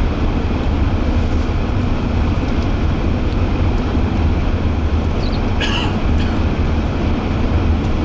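Steady road and engine rumble heard from inside a moving vehicle on the highway, with a brief higher sound a little past halfway.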